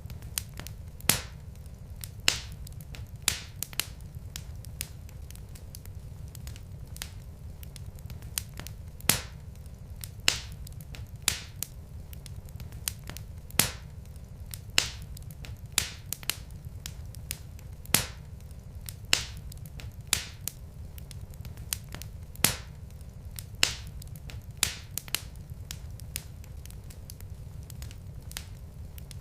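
Logs burning in a fireplace, crackling with irregular sharp pops, about one or two a second, over a steady low rumble.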